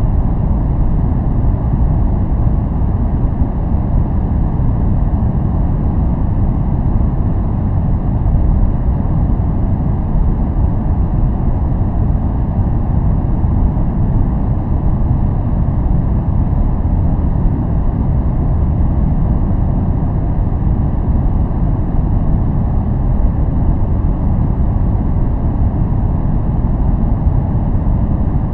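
Steady noise track of the kind sold as white noise, weighted to the low end: an even deep rumble with only a little hiss above it, unchanging throughout.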